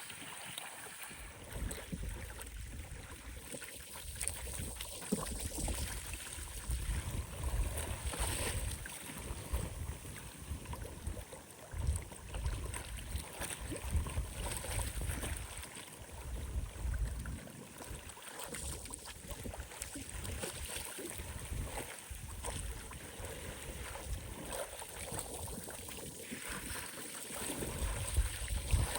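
Storm wind gusting across the microphone in rumbling surges that come and go every few seconds, over waves lapping and splashing at the lake shore.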